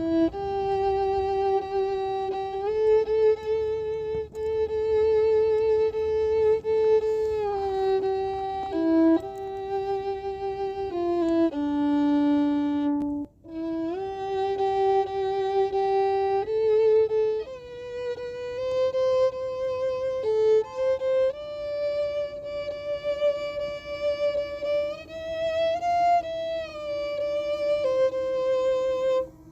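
Solo violin playing a slow melody of long held notes with vibrato, with a brief pause about halfway through.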